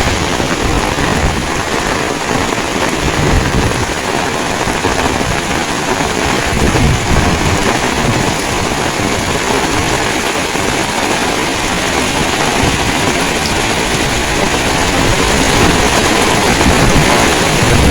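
Heavy rain falling in a loud, steady rush, with strong wind buffeting the microphone in low, uneven rumbling gusts.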